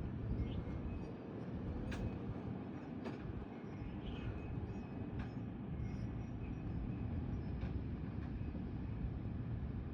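Gusty thunderstorm wind rumbling steadily, low and heavy on the microphone, with a few sharp clicks or knocks about two, three, five and near eight seconds in.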